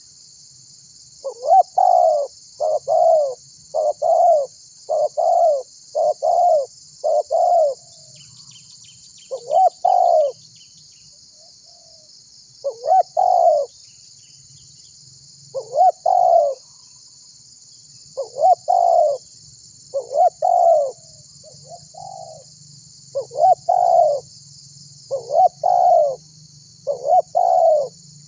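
Spotted dove (tekukur) cooing: its repeated coo phrase comes six times in quick succession early on, then keeps returning every couple of seconds.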